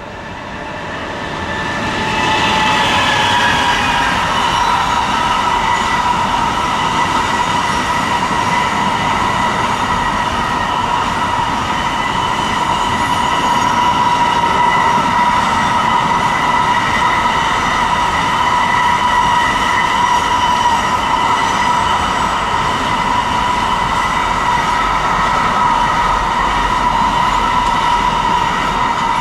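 A train passing close by on the main line. The sound builds over the first two seconds, then runs loud and steady for nearly half a minute: a continuous rail noise with a steady high-pitched ringing tone on top, as from a long train of wagons going past.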